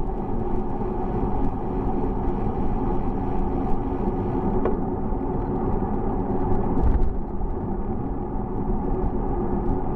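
Steady rumble and road noise of a bicycle ride, with a low drone carrying a few steady tones and small scattered ticks.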